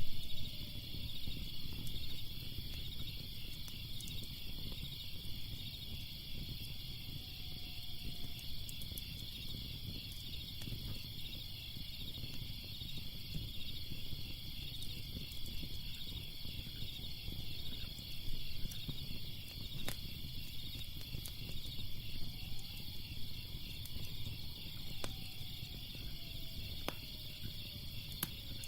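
Steady chorus of insects, a fast pulsing high chirring, over a low rumble, with a few sharp crackles and pops from a fire.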